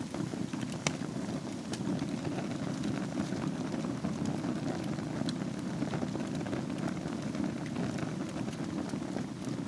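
Fire burning in a fireplace: a steady low rumble of flames with scattered small crackles and pops, one sharper pop about a second in.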